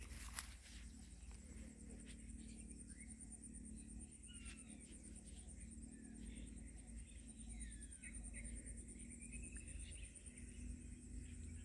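Faint bird calls: a few short chirps and slurred whistles scattered through, over a steady thin high-pitched hum and a low outdoor rumble.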